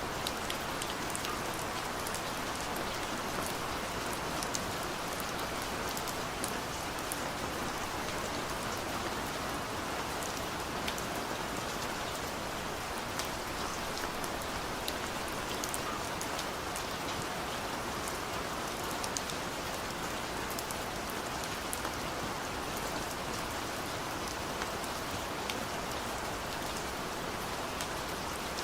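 Heavy downpour falling steadily, an even rush of rain with many scattered sharp drop impacts.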